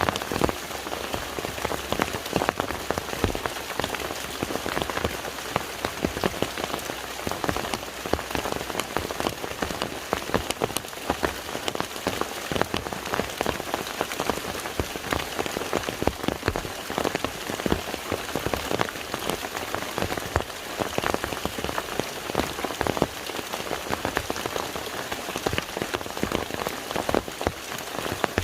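Steady rain falling on water, with many close individual drop patters over a constant hiss.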